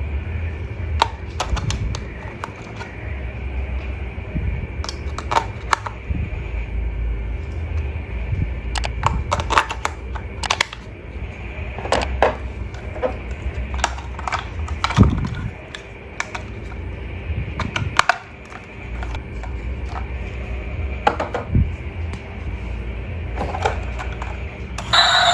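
Irregular clicks and taps of hands handling a plastic toy and its packaging, over a steady low hum.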